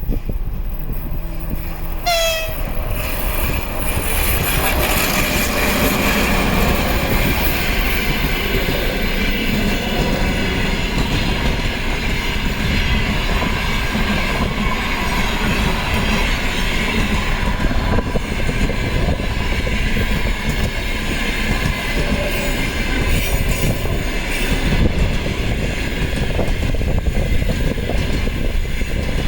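An EP1M electric locomotive sounds a short horn blast about two seconds in, its pitch dropping slightly. Its passenger train then passes close by with a loud, steady rumble of wheels on rails.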